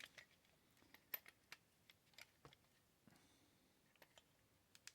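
Faint, scattered light clicks and taps of a D-cell battery being loaded into a toy airliner's battery compartment, past the flip-up divider contact.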